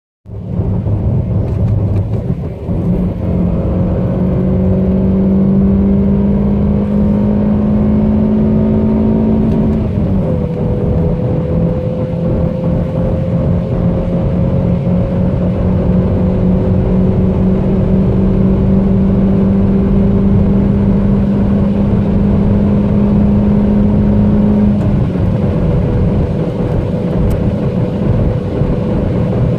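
Toyota Corolla Verso's petrol engine under hard acceleration at motorway speed, heard inside the cabin over loud road and wind noise. Its tone climbs slowly with the revs and drops as it shifts up a gear, about ten seconds in and again near twenty-five seconds in.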